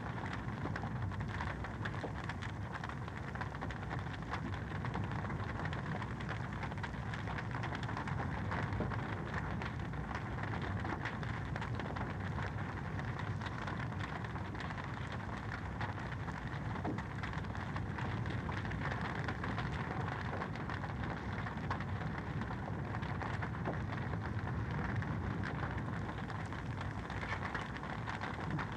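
Wood fire in a fireplace crackling steadily: a dense run of small pops and snaps over a constant low rushing hiss.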